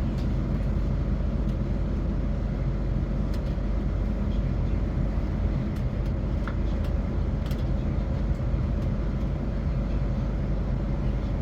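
Class 450 Desiro electric multiple unit running between stations, heard from inside the carriage: a steady rumble of wheels on track with a low, even hum and a few faint ticks.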